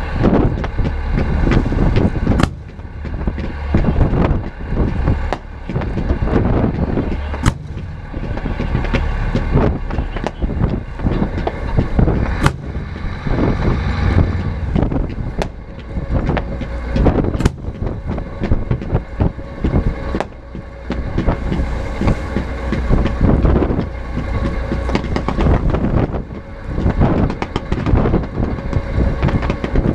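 Aerial fireworks going off in quick succession: a continuous rumble of bangs, with several sharp cracks standing out over it.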